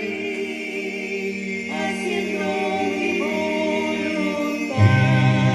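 Voices singing a slow Christian worship song in long held notes. A deeper, louder note comes in near the end.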